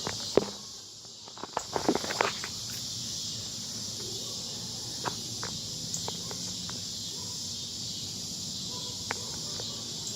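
Steady high-pitched buzzing of insects, with footsteps and rustling in the first two or three seconds.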